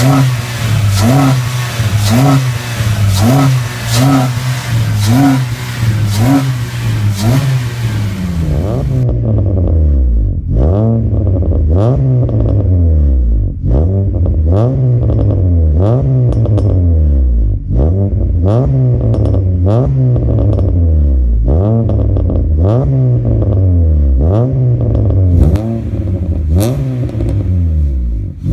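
Honda City car engine revved in repeated quick throttle blips through a full aftermarket exhaust and air intake, each rev rising and falling back, roughly once a second. The sound turns duller about a third of the way in.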